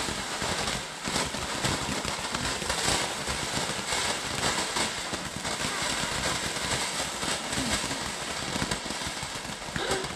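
Garden firework fountain burning: a steady hiss of spraying sparks with scattered crackles.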